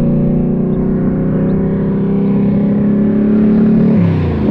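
Big-block V8 of the Anvil Mustang (an all-aluminium Jon Kaase Boss 520, 805 hp) pulling hard with a loud, steady engine note that climbs slightly. The pitch falls sharply near the end.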